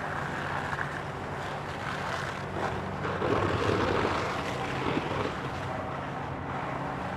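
A heavy engine running steadily at idle, a low even hum, under outdoor background noise that swells briefly a few seconds in.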